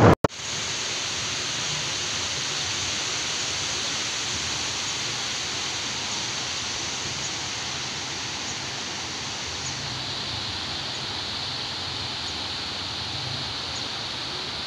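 Steady rushing of water, as from a river weir or stream, an even hiss that holds level throughout.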